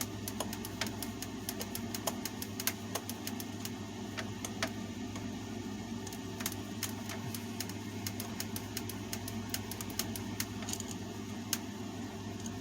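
Screwdriver working the screws loose on a table fan's motor housing: irregular small metal clicks and ticks over a steady low background hum.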